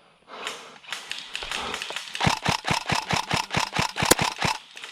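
Airsoft gun firing a rapid string of about a dozen shots, roughly five a second, which stops about half a second before the end.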